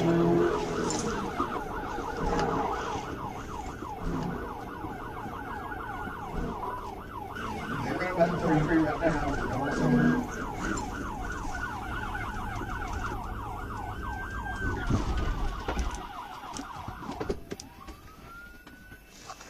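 Police cruiser siren on a fast yelp, rising and falling rapidly, over the cruiser's engine and road rumble; near the end it turns into a slower rising wail.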